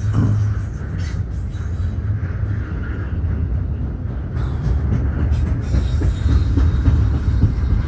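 Double-stack intermodal freight train's container well cars rolling past: a steady rumble of steel wheels on rail, with a few sharp clicks around a second in and again about four to five and a half seconds in.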